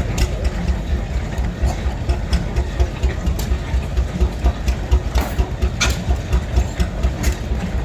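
A vintage engine running slowly and steadily, with a regular low beat of about four pulses a second and some sharp mechanical clicks over it.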